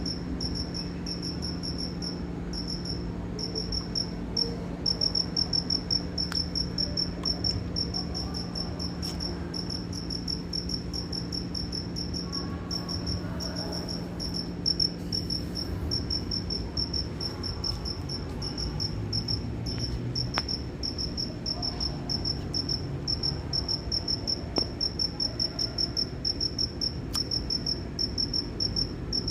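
Cricket chirping: a continuous, high-pitched trill of rapid, evenly spaced pulses, broken now and then by short pauses.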